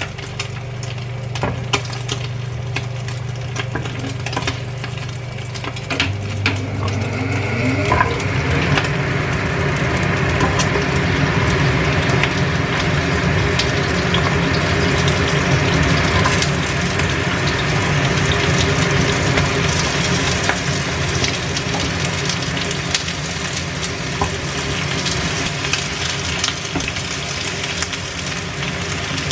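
Sliced jengkol (dog fruit) and an egg frying in hot oil in a nonstick pan. The sizzling jumps louder about eight seconds in, as the jengkol goes into the oil, and then keeps up steadily.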